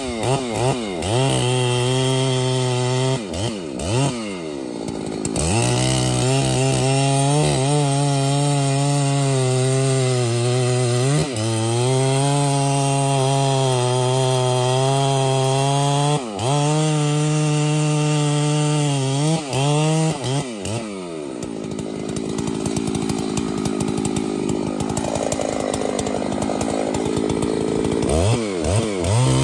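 Two-stroke chainsaw running at high revs. Several times the throttle eases off and the pitch drops, then it revs back up. In the second half the pitch sags and turns rough as the chain bites into wood under load.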